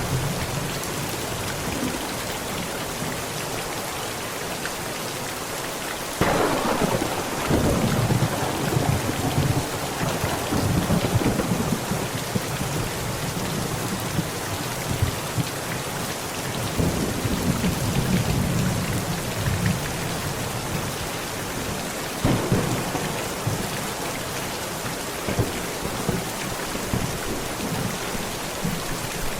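Heavy rain pounding steadily on a tent, with thunder: a sharp crack about six seconds in rolls into a long rumble, a second low rumble follows later, and another crack comes near the end.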